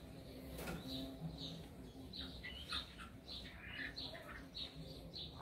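Faint bird chirping: one short high chirp repeating about twice a second, with other chirps mixed in.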